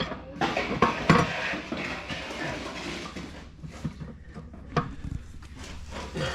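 Metal parts and tools clinking and knocking irregularly, the loudest knock about a second in.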